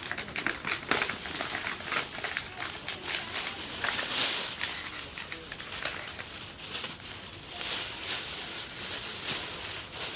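Ferro-rod fire starter scraped again and again to throw sparks onto tinder, a run of short rasping scrapes with some longer strokes. The tinder is not catching.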